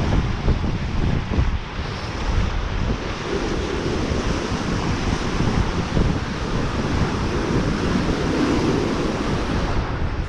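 Wind buffeting the microphone over a steady rush of surf, with the waves swelling now and then.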